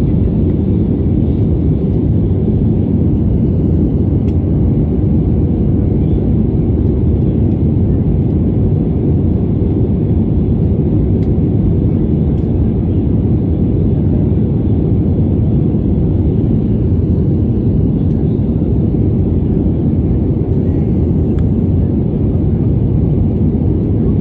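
Airliner cabin noise in flight: a loud, steady, even low rumble of the engines and rushing air.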